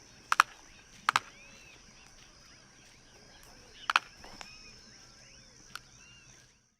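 Jabiru stork clattering its bill: sharp clacks, mostly in quick pairs, four times. Small birds chirp faintly in the background over a steady high hiss.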